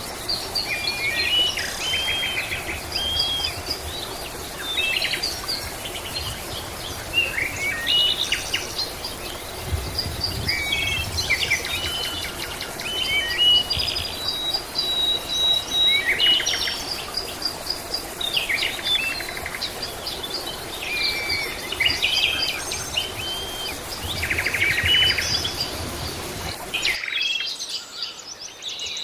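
Several songbirds chirping and singing, short whistled notes and buzzy trills overlapping one another, over a steady background hiss. The hiss cuts out abruptly near the end while the bird calls carry on.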